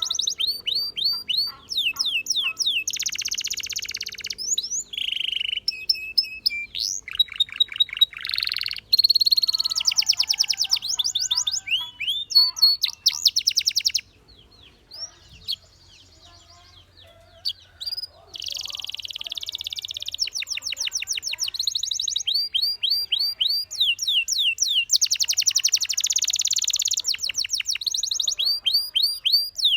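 Canary singing: fast trills of quickly repeated sweeping notes and rolls, with a pause of a few seconds about halfway through before the song starts up again.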